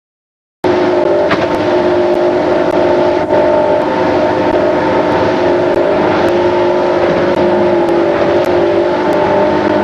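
Motorboat engine running steadily under way, a constant drone with wind and water noise, starting abruptly just after half a second in.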